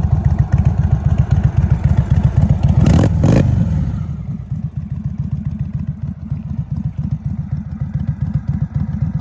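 Indian Chief Dark Horse's air-cooled Thunderstroke 116 V-twin idling with a steady low pulse. A brief loud burst comes about three seconds in, then it settles back to a quieter idle.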